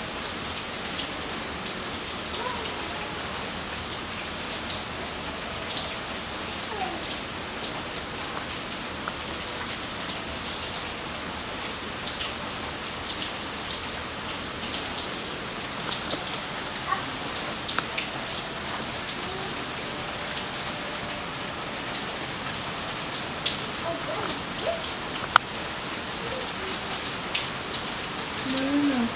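Steady rain falling, an even hiss with many separate drops ticking close by, and one sharper drip about 25 seconds in.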